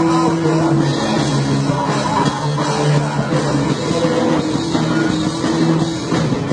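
Rock music played by a band, running steadily with held notes over a dense, busy backing.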